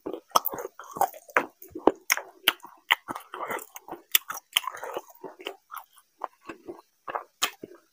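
Close-miked chewing of mutton curry and rice, with irregular wet smacks and clicks of the mouth, several a second. Soft squelches come from a hand mixing rice into the curry gravy.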